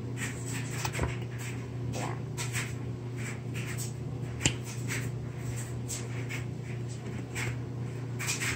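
Small clicks and light rustles of a baby eating, with one sharper click about four and a half seconds in, over a steady low hum.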